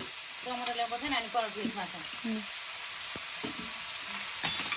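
Food sizzling steadily as it fries in a pan over the fire, with a short loud clatter near the end.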